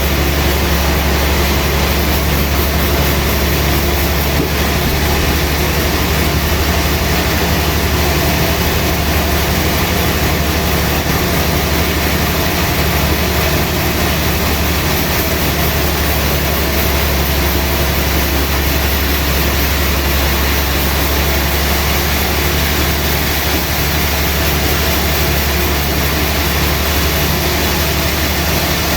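Sawmill machinery running with a loud, steady engine-like drone that does not change for the whole stretch.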